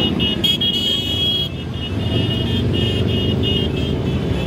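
Motorcycle engines running in a dense low rumble as a parade passes. Over it a high-pitched horn beeps, first held for about a second and a half, then in a run of short quick beeps.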